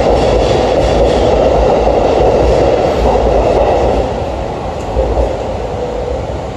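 Electric commuter train running along a station platform, a steady rumble and hiss that drops in level about four seconds in.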